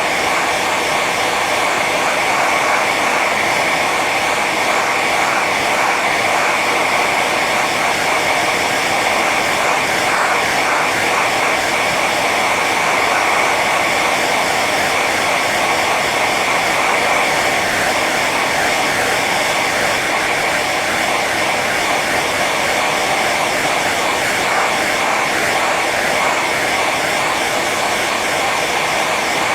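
Hair dryer running steadily on its high setting: an even rush of blown air over a motor whine.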